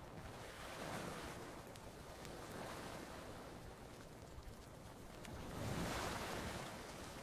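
Ocean waves washing onto a shore, rising to a swell about a second in and a louder one around six seconds, with a few faint crackles from a campfire.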